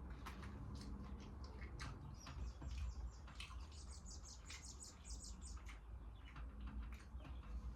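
Close-up eating sounds of crispy fried chicken: scattered clicks and crackles of chewing and crunching over a steady low hum. For about two seconds in the middle, a bird chirps in a quick run of short, high notes.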